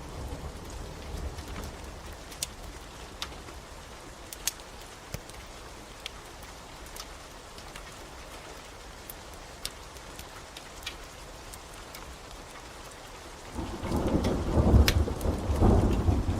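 Steady rain with scattered sharp crackles and pops of a wood fire. About thirteen seconds in, a loud rumble of thunder rolls in and becomes the loudest sound.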